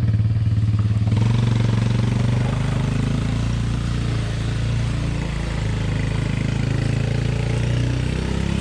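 Small ATV engine running steadily under load as it tows a jet ski, its note holding at much the same pitch throughout.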